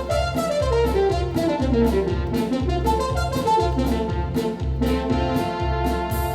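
Music played on a Yamaha DX7 FM synthesizer: a jazzy tune over a repeating bass line and a steady drum beat, with a melody that falls about a second in.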